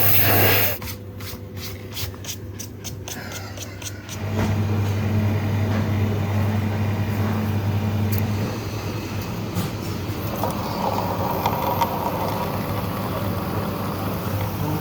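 Truck engine running with a steady low hum, after a quick run of clicks in the first few seconds.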